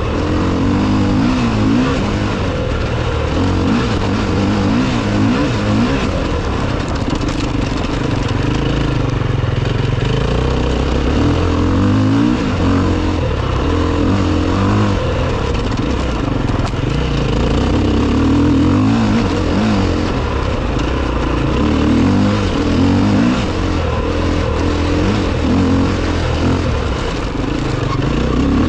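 Enduro motorcycle engine being ridden, its revs rising and falling over and over as the throttle is worked.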